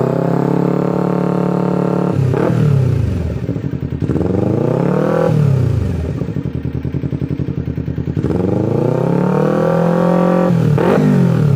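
250cc motorcycle engine through an aftermarket stainless steel exhaust, revved: held at a steady raised speed, then swung up and down twice, dropping to a lumpy idle, rising and holding again, and blipped quickly near the end.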